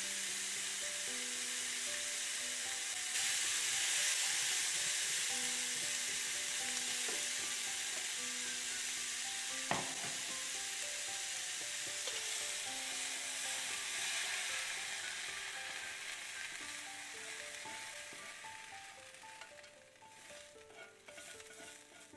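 Onions, pickles and mushrooms sizzling in a hot frying pan as they are stirred with tongs, with a single sharp click of the tongs against the pan about ten seconds in. The sizzle dies away near the end as the pan is lifted from the hob and scraped out, leaving a few small clicks, over soft background music.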